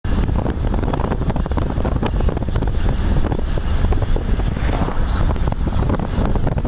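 Amtrak passenger train rolling by at speed: a loud, steady low rumble with heavy wind buffeting on the microphone.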